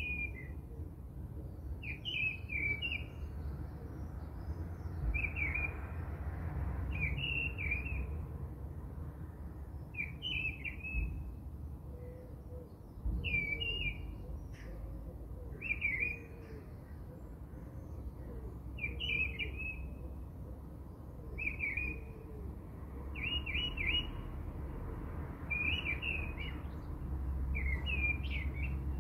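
A bird chirping, repeating a short, quick phrase about every two seconds, over a low steady rumble.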